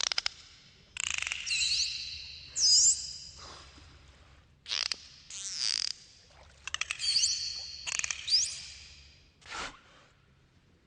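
Dolphins calling: rapid click trains and high whistles that sweep and loop up and down in pitch, in several short bouts with brief pauses between.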